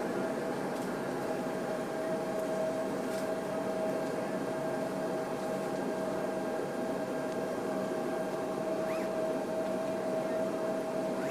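Steady hum inside a Boeing 747 passenger cabin: an even drone of air and machinery with a constant tone running through it.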